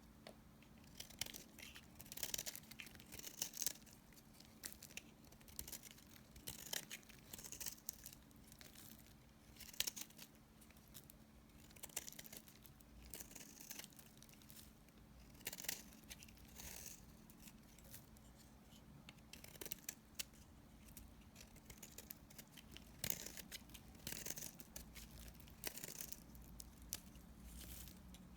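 A knife cutting dry bar-soap remnants: a series of crisp, crunchy strokes, one every second or two, over a faint steady low hum.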